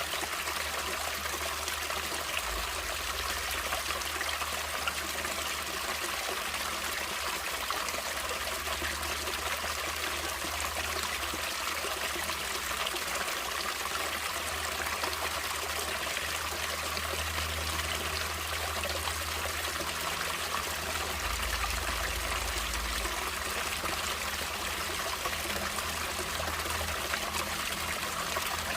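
Stream water running and trickling steadily, a continuous even splashing hiss.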